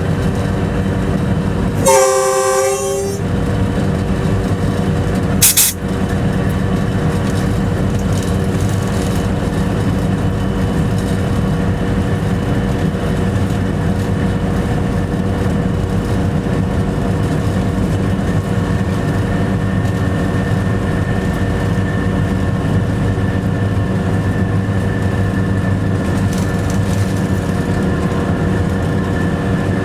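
Steady running noise inside a locomotive cab on the move. About two seconds in, the train horn sounds once for roughly a second. A sharp click follows a few seconds later.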